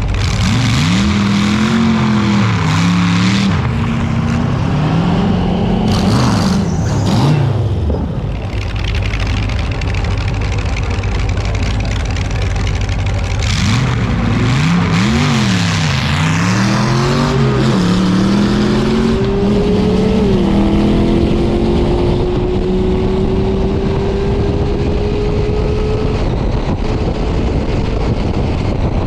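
Drag-racing car engine revving up and down several times. About 14 seconds in it revs again and accelerates hard, with a drop in pitch at a gear change about 20 seconds in and then a long steady climb that fades away.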